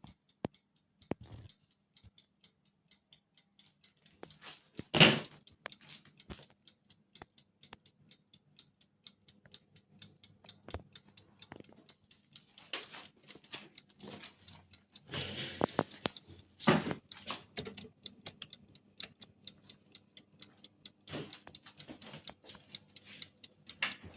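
Toaster oven's mechanical timer ticking, a run of quick clicks over a faint low hum. A louder knock comes about five seconds in, with handling rustle around fifteen to seventeen seconds in.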